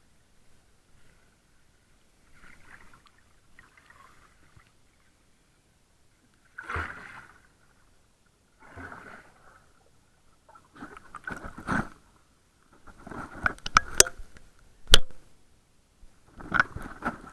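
Water sloshing and splashing around the camera in irregular bursts, growing louder and more frequent toward the end, with a few sharp clicks or knocks about two-thirds of the way in.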